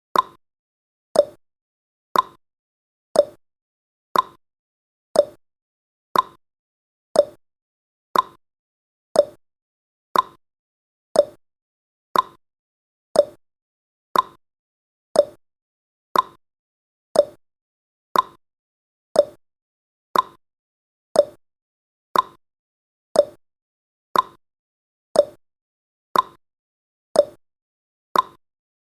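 Countdown timer's tick sound effect: one short click every second, evenly spaced and steady.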